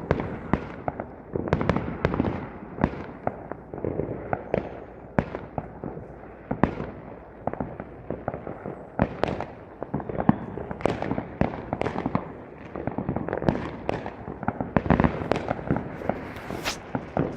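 Fireworks going off: a dense, irregular string of sharp bangs and pops, several a second, over a continuous crackle.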